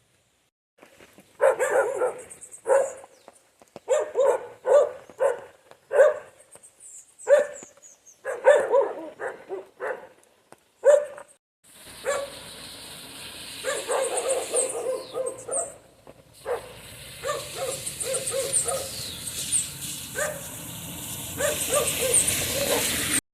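A dog barking repeatedly, in short runs of quick barks. From about halfway, steady background noise lies under the barking.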